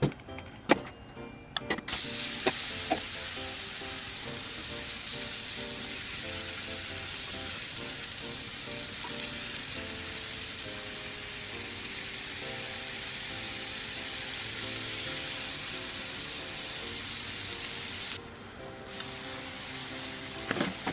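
Cut bottle gourd pieces sizzling in hot oil in a frying pan as they are stir-fried with chopsticks. The sizzle starts about two seconds in, after a couple of sharp knocks, and cuts off suddenly near the end.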